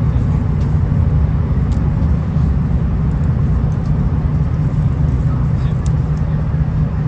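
Steady low rumble heard inside a V/Line VLocity diesel railcar, from its underfloor diesel engines and running gear, with a few faint ticks.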